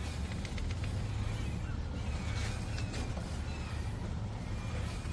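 Scattered light clicks and creaks over a steady low rumble.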